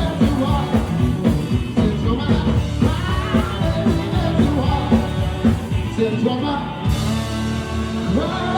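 Live rock and roll band playing, with drums and a singing voice. Near the end the drumming stops and a chord is held.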